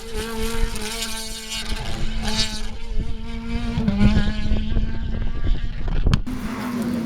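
Rally car engine running and revving, its pitch rising and falling, with sharp crackles throughout. A single sharp click a little after six seconds in.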